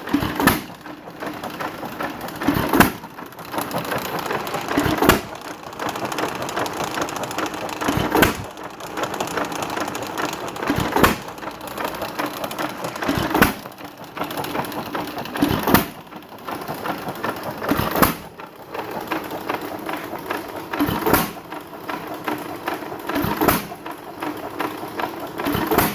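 Associated 1 3/4 hp hit-and-miss stationary gas engine running: a sharp firing bang about every two and a half seconds, with a steady mechanical clatter between the firings.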